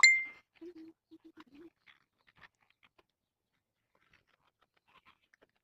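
A cat with no front teeth eating, his teeth scratching together in faint, scattered crunchy ticks. A sharp click with a brief ring right at the start is the loudest sound.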